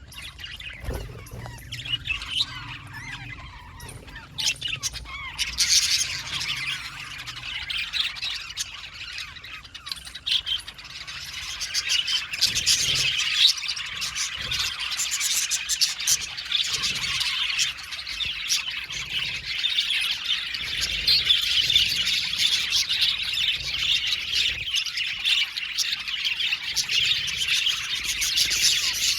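A flock of budgerigars chattering, chirping and warbling together, scattered calls at first and then, from about ten seconds in, a dense continuous chorus.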